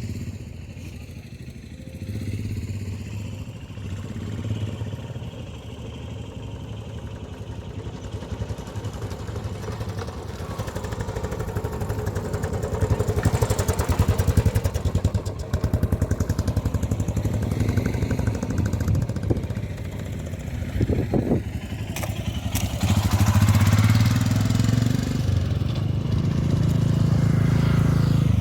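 Motorcycle engines running, growing louder about halfway through and again near the end.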